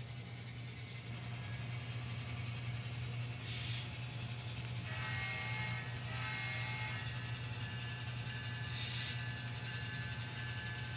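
N scale model train running along the layout's track, a steady low electric hum with brief hissy bursts twice and a short high whine in the middle.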